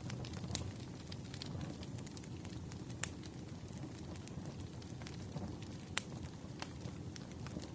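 Campfire crackling: a steady low rumble of burning wood with scattered sharp pops, two louder ones about three and six seconds in.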